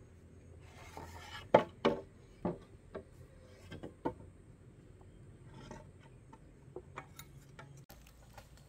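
Objects being handled: a brief scraping rustle, then a handful of sharp knocks and clatters over about three seconds, followed by a few faint ticks.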